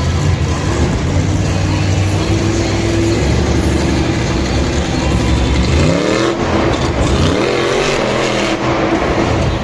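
Monster truck engine running steadily, then revved hard twice in quick succession, the pitch sweeping up about six seconds in and again a second and a half later.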